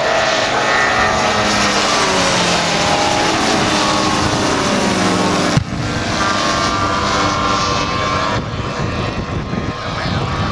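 Engine and propeller of a large-scale radio-controlled model warbird flying past, its pitch falling as it goes by. There is an abrupt break in the sound about halfway through.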